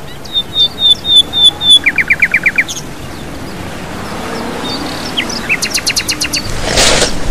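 Songbirds calling: a row of about six short, high whistled notes, then a quick run of about eight down-slurred notes, and later another rapid series of sharp notes. A brief rushing noise comes near the end.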